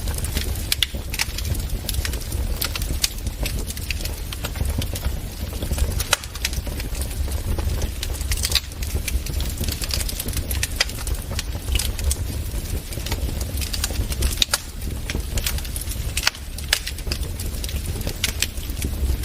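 Wood fire crackling in a fireplace: irregular sharp pops and snaps, many to the second, over a steady low rumble.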